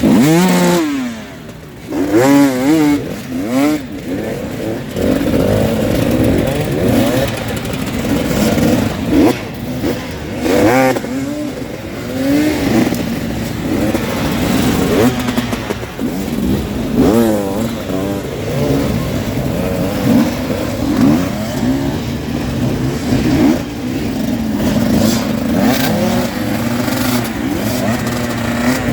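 Several enduro dirt bike engines revving hard and dropping back, their notes overlapping and repeatedly sweeping up and down in pitch as the bikes are worked through a steep, rough ravine.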